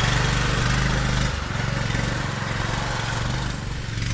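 Off-road buggy engine running with a steady low note that drops and eases off about a second in.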